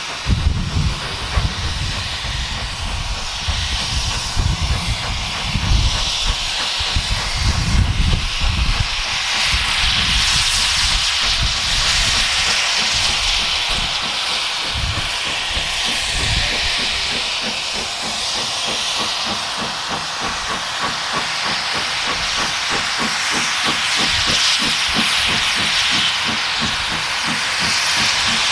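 Steam locomotive hissing steadily and loudly, with uneven low rumbles through the first third.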